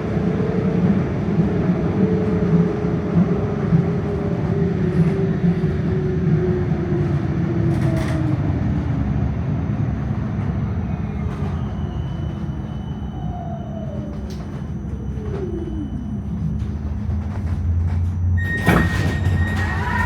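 Tram ride heard from inside the car: a steady low rumble under a motor whine that falls slowly in pitch, as the tram slows. Near the end a high steady beep sounds, with a few clicks.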